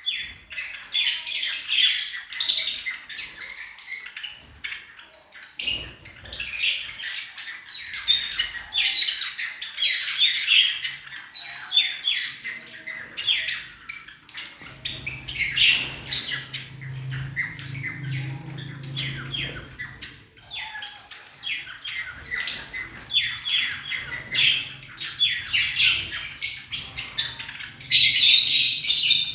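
A flock of lovebirds chattering with rapid, high-pitched chirps and squawks. A faint low hum joins about halfway through.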